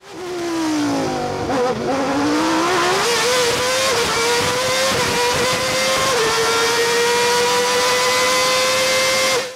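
A car engine revving. Its pitch dips over the first second and a half, then climbs and holds at high revs with small steps. It cuts off abruptly at the end.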